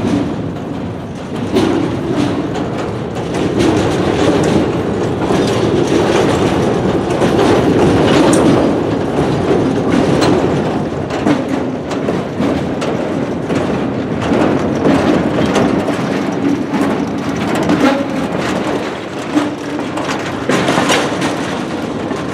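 Freight train's boxcars rolling past close by, steel wheels rumbling on the rails with repeated sharp clicks as the wheels pass over rail joints.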